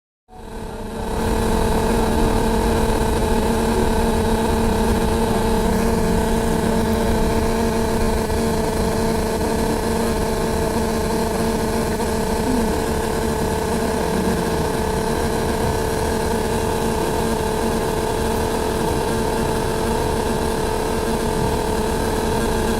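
Loud, steady droning hum from a double-decker bus, heard from the upper deck: a constant, unchanging pitch over a low rumble. It is the nonstop noise that the passenger says was loud enough to give them a headache.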